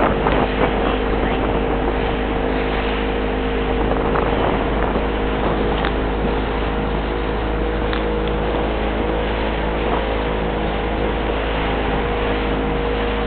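Motorboat engine running steadily at an even pitch, heard from aboard the boat, with wind and water noise over it.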